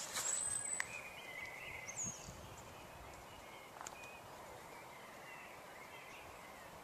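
Quiet outdoor evening background with a few faint, brief bird chirps and whistles.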